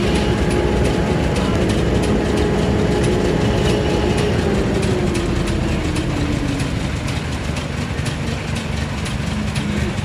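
Heavy vehicle running over a steady low rumble, with a whine that holds steady and then falls in pitch from about four to seven seconds in.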